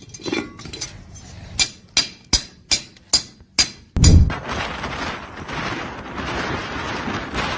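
Hard objects struck together forcefully to throw sparks: six sharp clacks a little under half a second apart. A heavy thud follows, then a steady rushing noise.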